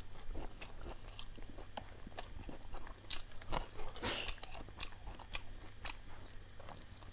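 Close-miked chewing of a mouthful of food: a string of irregular moist clicks and smacks, with a louder crunchy bite about four seconds in.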